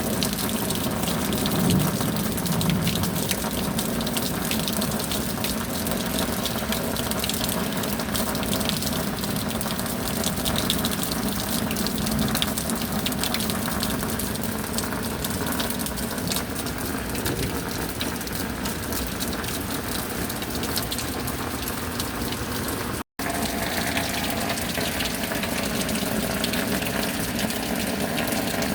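Steady rain, a dense hiss of falling water thick with fine drop ticks. The sound cuts out completely for an instant once, late on.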